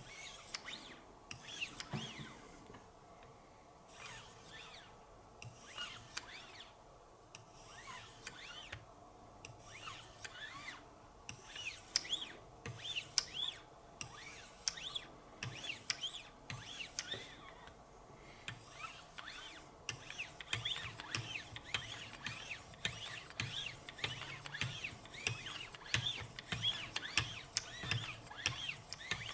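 Diamond lapping films on a Wicked Edge guided sharpener's paddles stroked up along an S90V steel knife edge, a light repeated scraping. It is the mirror-polishing stage of the sharpening. The strokes come quicker and a little louder in the last third.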